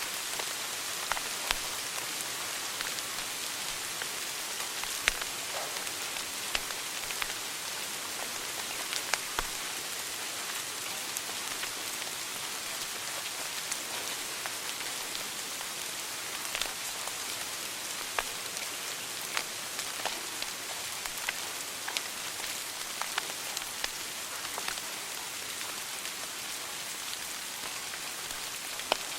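Wood fire burning in a fireplace, crackling: a steady soft hiss with irregular sharp pops and snaps.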